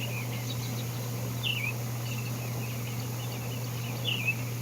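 Birds singing: many scattered short chirps and trills, with two louder falling chirps about one and a half seconds in and near the end, over a steady low hum.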